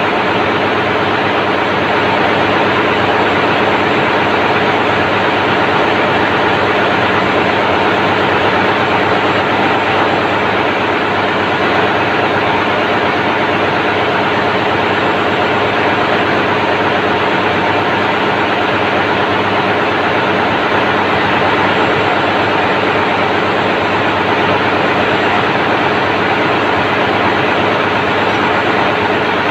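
Daihatsu 6 DL 19 auxiliary diesel engine, the ship's main generator set, running steadily at constant speed: a loud, unchanging engine-room drone.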